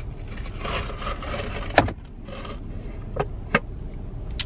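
Steady low rumble of a car cabin while driving, with faint murmuring and three sharp clicks or knocks, one near the middle and two close together later on.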